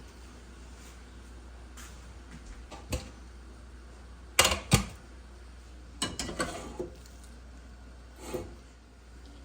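Kitchen handling sounds: scattered knocks and clinks of dishes and utensils being set down and moved. The two loudest come close together about four and a half seconds in, with a quick run of smaller clinks around six seconds, over a low steady hum.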